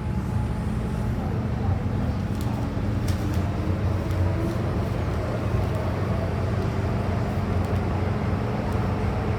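MTR M-Train (Tsuen Wan Line) running between stations: a steady low rumble heard inside the carriage.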